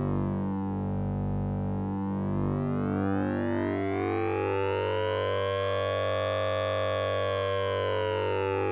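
Synthesizer drone from the Orange Vocoder plugin, using oscillator sync and ring modulation: a steady low hum under a pulsing, stepping pattern of mid tones. Its upper overtones dip, then sweep slowly up like a siren and fall back near the end.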